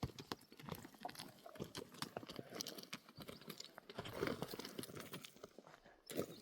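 Donkeys' hooves clip-clopping unevenly on stony ground, a run of irregular knocks and crunches with a brief scuffle about four seconds in.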